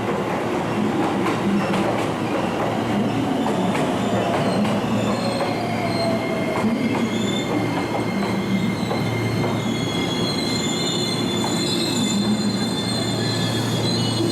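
Electric train moving slowly through the station, its wheels squealing against the rails. A motor whine falls in pitch in the first half as the train slows, and the high squeal grows stronger in the second half.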